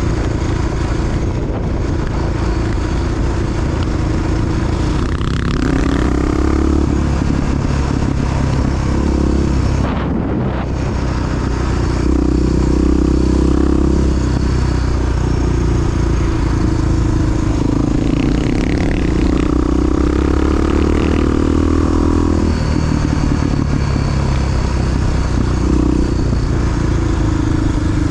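Honda XR big single-cylinder four-stroke dual-sport motorcycle engine running on the move. Its pitch rises and falls as the throttle is worked through the ride.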